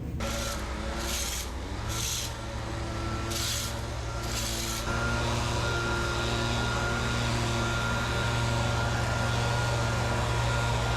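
Vehicle engine running steadily, heard from inside the cab. There are several short hisses over the first few seconds, and the engine steps up a little about five seconds in, with a faint steady whine after that.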